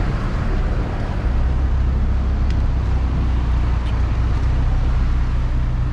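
Volkswagen Parati's engine idling steadily with a smooth, even low rumble, running through a straight exhaust pipe with no muffler, only the catalytic converter.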